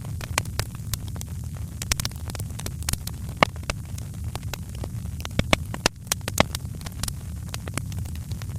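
Fire in a fireplace crackling, with irregular sharp pops and snaps over a steady low rumble.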